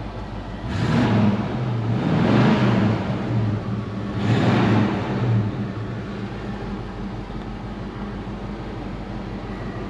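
AMC 390 V8 of a 1968 AMX idling, with two louder surges of engine noise, about a second in and about four seconds in, before it settles back to a steady idle.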